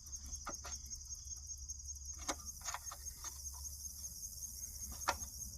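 Crickets chirping steadily in the background, with a handful of light, sharp clicks from hand-wrench work on the truck's bolts.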